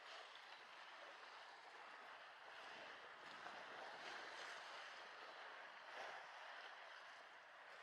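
Faint small waves lapping and washing against the shore, a steady wash that swells gently now and then.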